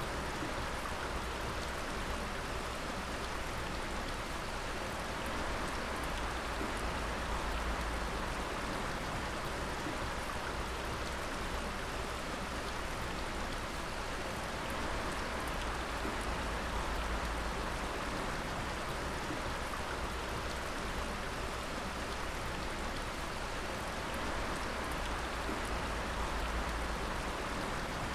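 Water dripping: many drops falling steadily in a dense, even sound like rain, with a low steady rumble underneath.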